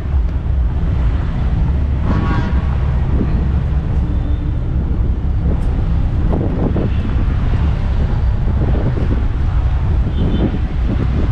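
Wind buffeting the microphone with a steady low rumble, and faint voices now and then in the background.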